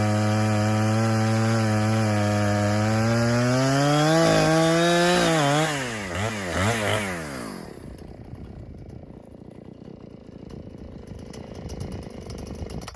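Chainsaw engine running at a steady speed, then rising a little and revving up and down in quick surges before winding down and stopping about seven seconds in. Faint small handling sounds follow.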